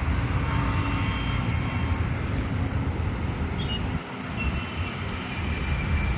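Steady low outdoor background rumble, like distant traffic or wind, with a faint high chirp repeating about twice a second; the rumble dips briefly about four seconds in.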